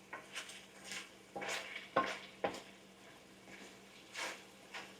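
Spoon stirring and scraping pork spare ribs in a cooking pot, a string of irregular scrapes, with a light sizzle as the cooking water has nearly boiled away.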